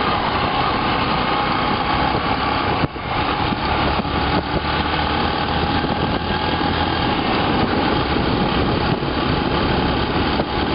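Motorcycle running steadily while riding on the road: a dense, unbroken engine and road noise with a steady tone, briefly dipping about three seconds in.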